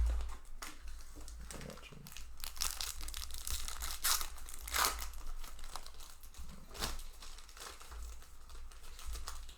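Magic: The Gathering booster pack wrapper crinkling and being torn open, a run of irregular crackles and rips.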